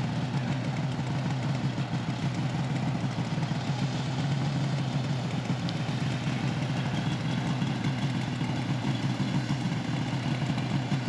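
Two-stroke engine of a 1978 Ski-Doo Blizzard 340 snowmobile idling steadily with a fast, even pulsing beat.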